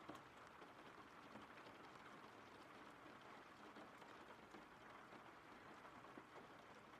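Faint, steady rain: an even hiss scattered with small drop ticks.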